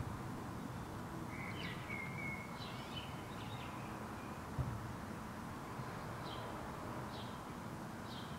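Garden birds chirping over a steady outdoor background hiss: a cluster of short calls in the first few seconds, then three brief chirps about a second apart near the end. A soft low thump about halfway through.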